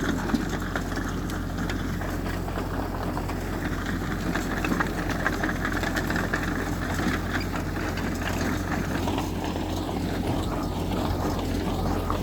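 Heavy earthmoving machinery's diesel engine running steadily at a low, even speed.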